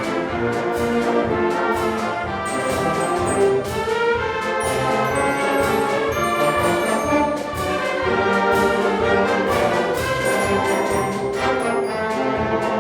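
A school wind orchestra playing a march, with full brass and woodwinds over a steady percussion beat.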